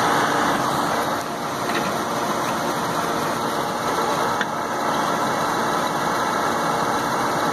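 Steady running drone of rooftop HVAC equipment, the fan and motor of a packaged gas heating unit.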